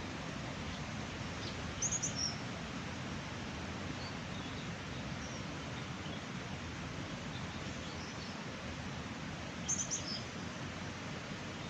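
Birds chirping in short high bursts, loudest in two clusters about two seconds in and near the end, over a steady rushing background noise.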